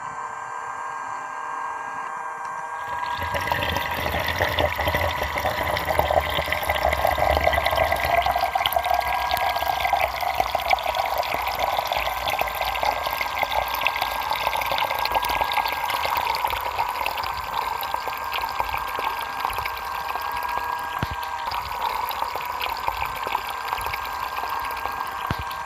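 A small toy DC motor belt-driving a miniature plastic water pump: a steady whine, then about three seconds in the pump begins throwing a jet of water that gushes and splashes onto sand, loudest in the first several seconds of the flow.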